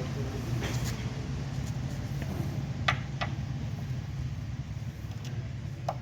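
A steady low mechanical hum with a few sharp metallic clinks of hand tools on steel, as the steering-rack and suspension bolts are worked on. Twice near the middle the clinks come close together.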